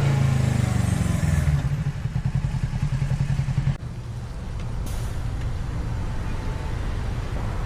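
Motorcycle engine running loud with a pulsing, throbbing beat, then dropping off suddenly about four seconds in to a quieter, steady low running sound.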